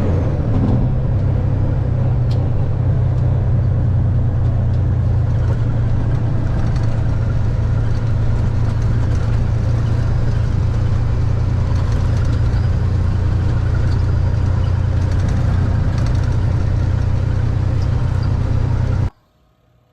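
Diesel semi truck driving along the road: a steady low engine drone with road noise, cutting off suddenly near the end.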